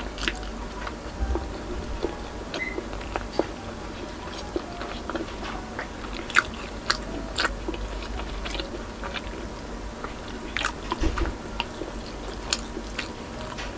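Close-miked eating sounds: wet chewing of soft food, with many sharp mouth clicks and smacks scattered irregularly throughout.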